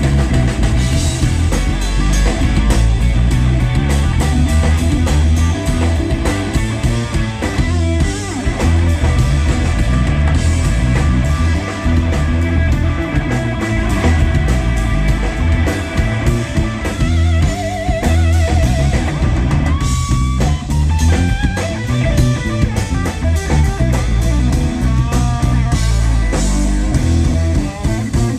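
Live blues-rock band playing an instrumental passage: electric guitar lead over bass and drum kit. About two-thirds through the guitar holds a note with a wide vibrato, then bends up into new notes.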